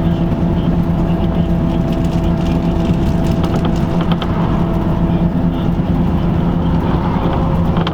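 LiAZ-5250 bus heard from inside the cabin while driving: a steady engine drone with road noise, and a few light rattles about halfway through.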